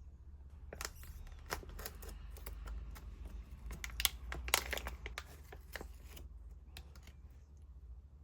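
Irregular crinkling and sharp clicks of something being handled, clustered over the middle few seconds, over a faint low hum.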